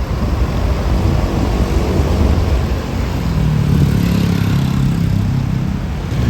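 Road traffic passing at the roadside: a steady low rumble, with a motor vehicle's engine drawing near and getting louder from about three seconds in.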